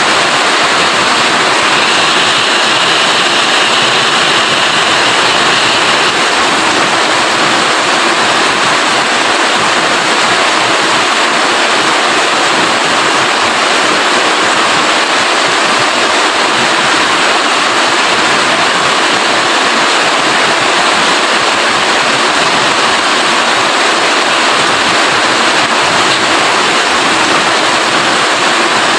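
Heavy, steady rain: a dense, even hiss with no breaks.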